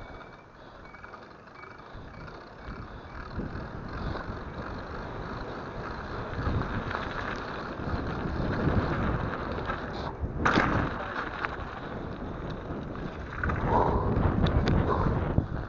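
Mountain bike riding down a snowy trail: wind on the microphone and rattling from the bike grow louder as it picks up speed, with a sharp knock about ten seconds in.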